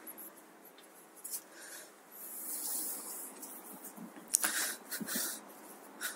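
Faint rustling and rubbing as a disposable glove is pulled on, with two sharper handling noises about four and a half and five seconds in.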